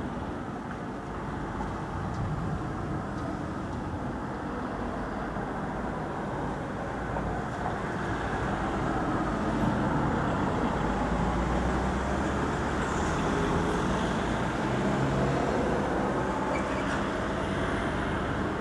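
Thunder rolling: a long low rumble that slowly builds to its loudest about halfway through, then eases a little toward the end.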